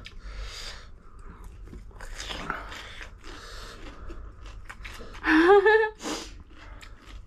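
Close-up chewing and mouth noises of people eating spicy noodles, with scattered small clicks. A brief voiced sound comes about five seconds in.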